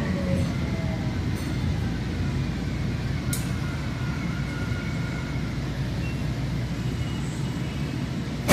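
Light-rail train running, heard from inside the car: a steady low rumble with a faint motor whine that drifts slowly in pitch, and one sharp click a little over three seconds in.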